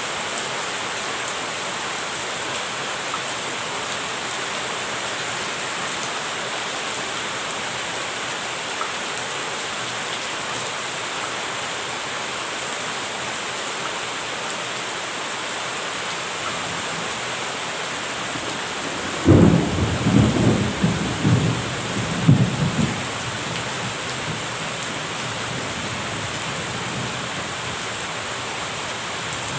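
Steady rain falling, with a sudden clap of thunder about two-thirds of the way through that rumbles on in uneven rolls for about four seconds.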